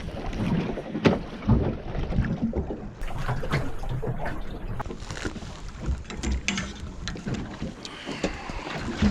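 Wind buffeting the microphone on a small anchored fishing boat, over a rough steady rumble, with irregular knocks and clicks of fishing rods and gear being handled as lines are set out.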